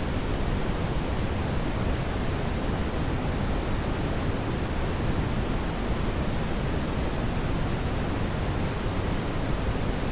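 Brown noise: a steady, even hiss, deepest and strongest in the low end, with no changes or events.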